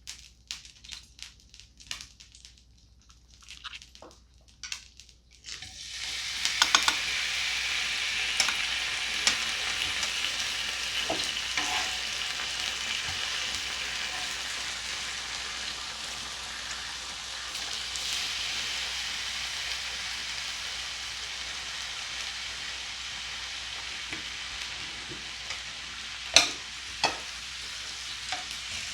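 Meat sizzling on a hot tabletop grill: a few light clicks of utensils, then about six seconds in a loud frying sizzle starts abruptly and keeps on steadily. Two sharp clacks of a utensil come near the end.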